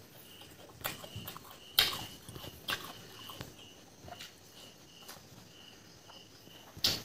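Wet chewing and lip smacks of someone eating fried pork and rice: a few sharp smacks about a second apart, quieter chewing between them. An insect chirps faintly in a steady repeating pattern in the background.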